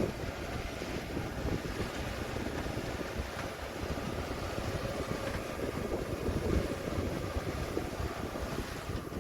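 Heavy construction machinery, an excavator or bulldozer diesel engine, running steadily, with wind noise on the microphone.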